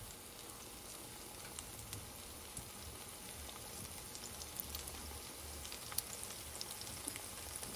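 Plantain slices sizzling in shallow oil in a frying pan: a steady hiss dotted with small pops of spitting oil, and one sharper pop about six seconds in.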